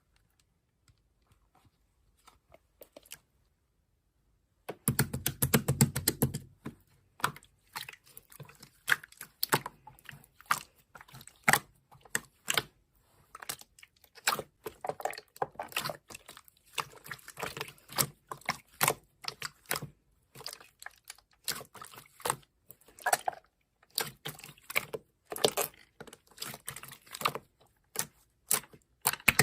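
Slime being squeezed and poked by hand, giving dense, irregular sticky clicks and crackles. It is almost quiet for the first few seconds, with only a few faint clicks, before the clicking starts up about five seconds in.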